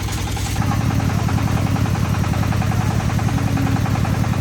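Concrete mixer's engine running steadily with an even, rapid pulse; it gets louder about half a second in.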